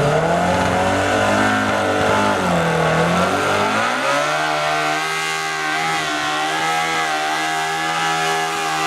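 Small-block Chevy V8 in a Cub Cadet pulling tractor running hard. Its pitch wavers and dips a few seconds in, then holds steady as the tractor bogs on traction at the end of its pull.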